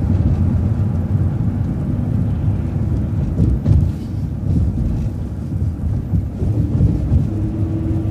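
City bus driving, heard from inside: a loud, steady low rumble of engine and road noise, with a few jolts about three and a half seconds in as the wheels cross railroad tracks. A steady hum comes in near the end.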